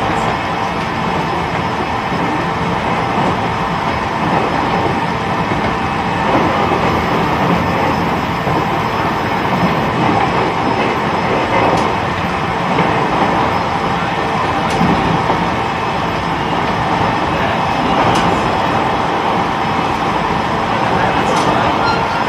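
E129-series electric train running steadily between stations, heard from inside the motor car: continuous rolling and wheel noise on the rails, with a few sharp clicks.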